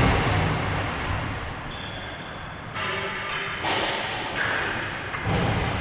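Hockey game play: sharp knocks and thuds of sticks and ball striking each other and the boards, a loud one at the start and several more a second or so apart, over general rink noise.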